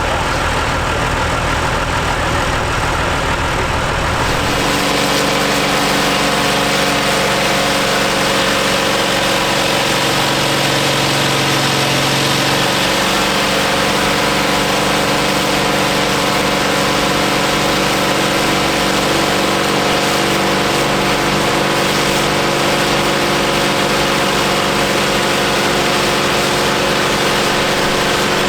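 Tractor diesel engines running steadily during dynamometer testing. For the first four seconds it is a John Deere 3650; then the sound switches abruptly to a Ford 7810's diesel engine, which holds a steady speed.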